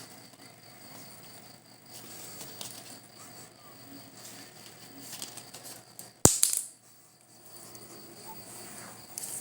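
Insects chirping steadily in a high, even band, with one sharp, loud knock a little past the middle.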